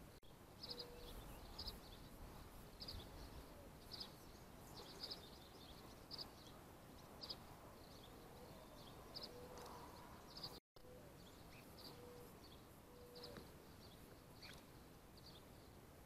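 Faint bird chirps: short high notes repeated roughly once a second, with a few short low steady notes now and then.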